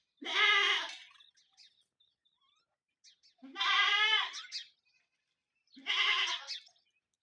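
Peafowl calling: three loud, separate calls, each under a second long, spaced a couple of seconds apart.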